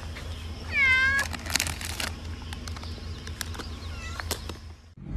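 Domestic cat meowing twice: a clear meow about a second in and a fainter, shorter one near four seconds, with a few light clicks and taps in between.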